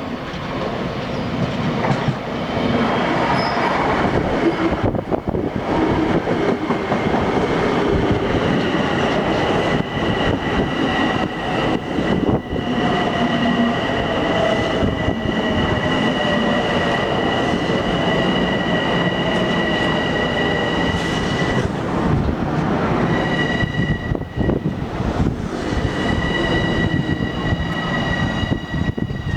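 Long Island Rail Road M7 electric multiple-unit train running through the station and slowing: continuous loud wheel and rail noise, with a motor tone falling in pitch as it slows and two steady high-pitched whines over it.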